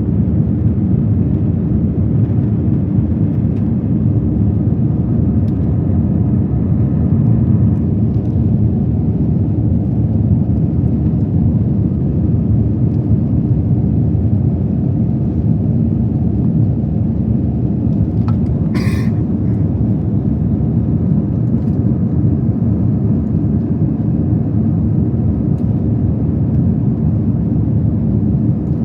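Steady low rumble of an Airbus A321 in flight, engine and airflow noise heard inside the passenger cabin. A single brief sharp sound cuts through it about two-thirds of the way in.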